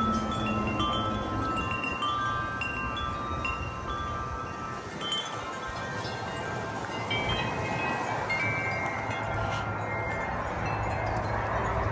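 Wind chimes ringing in the wind, many tubes struck at several pitches, busiest in the first half and sparser later. A gust brings wind rushing over the microphone toward the end.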